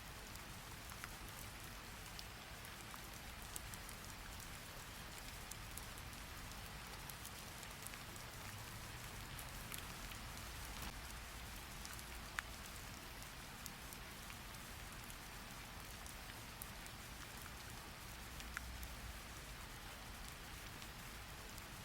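Steady rain falling, a soft even hiss with a few scattered sharp drips or clicks.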